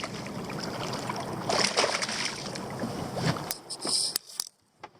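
Water sloshing and slapping against a small boat's hull, swelling a couple of times, with a few sharp clicks and knocks about three and a half seconds in.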